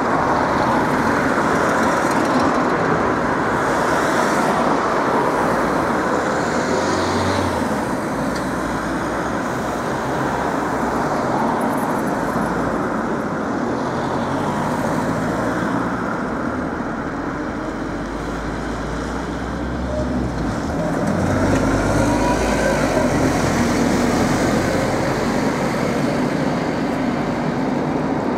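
Scania OmniCity bus's diesel engine running amid steady road-traffic noise, with a deeper engine note swelling about two-thirds of the way through.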